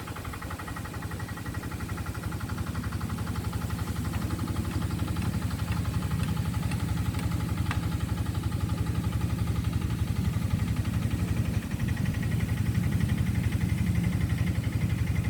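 An engine running at a steady speed with a fast, even pulse, growing gradually louder as it comes closer.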